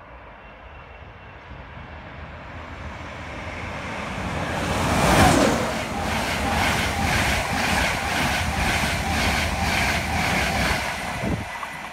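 Virgin Trains East Coast express passenger train passing non-stop at speed. A rising rush as it approaches is loudest about five seconds in, as the leading vehicle goes by with a falling pitch. A steady rush then follows, with regular wheel beats about two a second as the coaches pass, and it cuts off near the end as the last vehicle clears.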